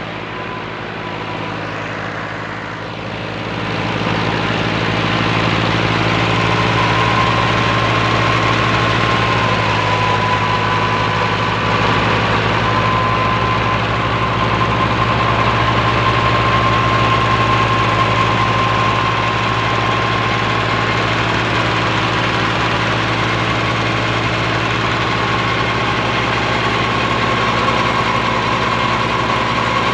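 Fiat 480 tractor's three-cylinder diesel engine running steadily under load while powering a threshing machine, with a steady high whine over the engine note. It gets louder about three to four seconds in, then holds steady.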